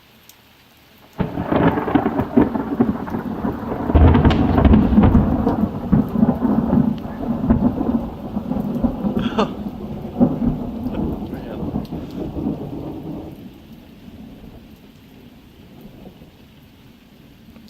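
A loud thunderclap breaks about a second in, with a heavier crash about three seconds later, then rumbles and dies away over the next ten seconds. Steady rain falls throughout.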